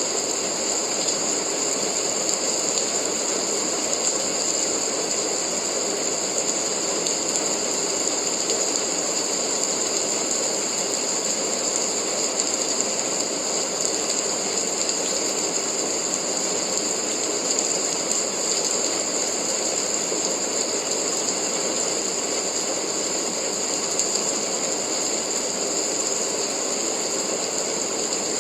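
Steady rain sound used as sleep white noise: an even, unbroken hiss with a constant high-pitched edge over it.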